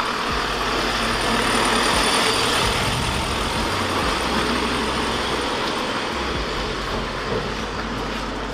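Volkswagen Golf Mk4's engine running steadily, a rough even rush of noise over a low rumble that eases off slightly near the end.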